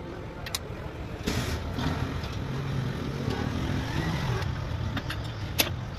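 Truck diesel engine running with a steady low rumble, with a short burst of hiss about a second in and a few sharp clicks.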